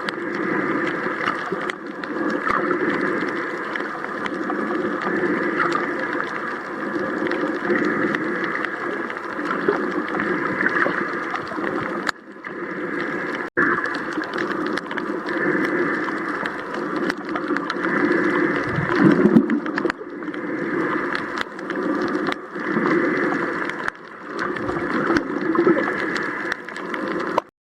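Boat engine running steadily under way, briefly dropping out twice about halfway through.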